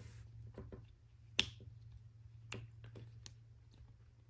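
Small hard plastic clicks and taps of Lego pieces being handled while a wheel is fitted onto its axle, with one sharp snap about a second and a half in.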